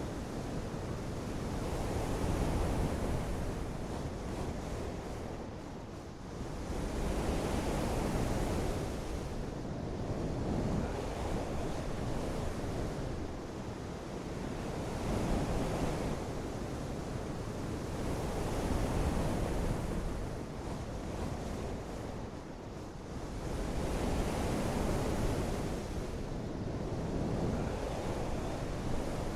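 Rushing water noise, with wind, that swells and eases every few seconds.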